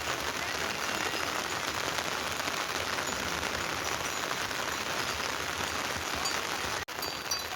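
Steady rain falling: a dense, even patter with no break except a brief cut-out near the end.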